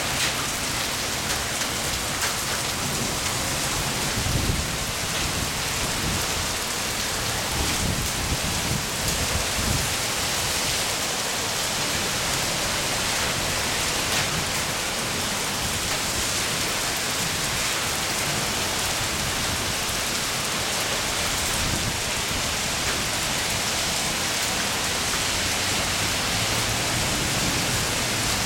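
Heavy rain pouring steadily onto pavement, a thick even hiss, with a few brief low rumbles between about four and ten seconds in.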